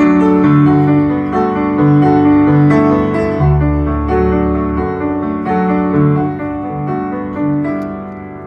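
Solo piano playing an improvised introduction of sustained chords and a melody line, fading a little near the end.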